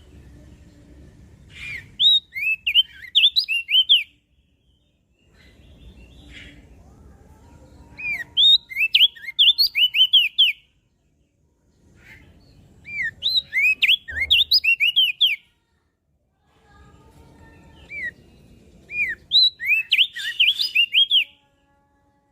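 Opior jambul (crested dark-eye) singing in four short bursts of rapid, high, down-curving chirps, each lasting about two seconds, with pauses of a few seconds between them.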